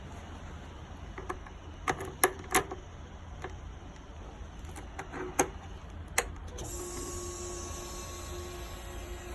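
A few sharp clicks from the Kawasaki Z900's key and switches, then a faint steady electric whine with a hiss about two-thirds of the way in, typical of the fuel pump priming with the ignition on before a cold start.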